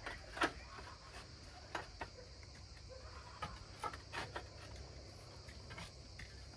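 Insects trilling steadily in the background, with scattered light knocks and clicks throughout.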